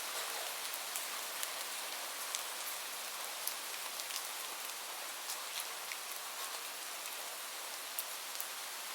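Steady rain falling, a dense even hiss with scattered individual drops tapping.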